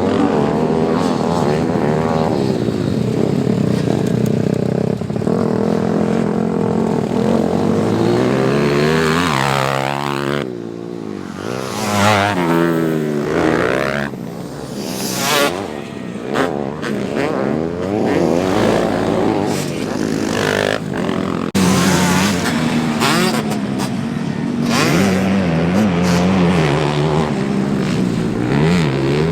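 Small single-cylinder pit bike engines on a dirt track, revving up and down over and over as the throttle is worked and gears change, with a few abrupt jumps in the sound.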